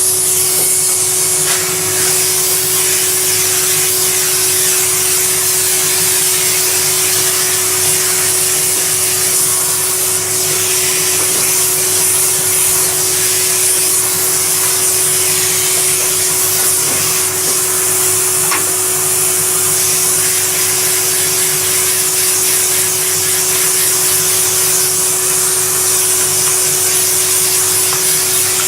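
A vacuum cleaner running steadily at full power: an even, unbroken whoosh of air with a constant motor hum underneath.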